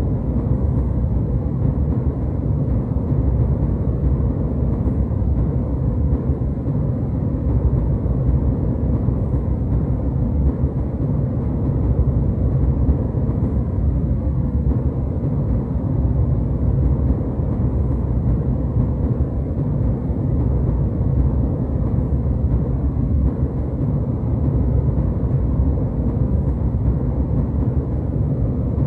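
Steady low rumble of jetliner cabin noise in flight: the engines and airflow heard from inside the cabin, even and unbroken, with the most energy in the bass.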